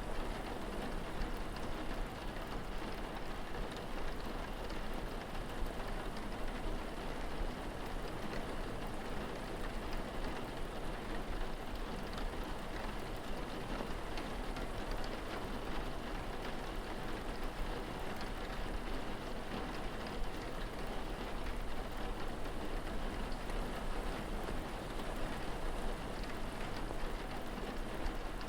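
Steady rainfall with dense pattering of drops on surfaces, even throughout, over a constant low hum.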